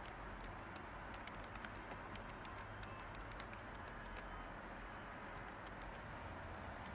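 Light typing on a computer keyboard: scattered, irregular soft key clicks over a steady background hiss with a low hum.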